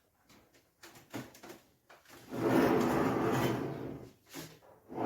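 Plastic fridge crisper drawer sliding and scraping for about a second and a half, with a few light knocks before it and another short scrape near the end.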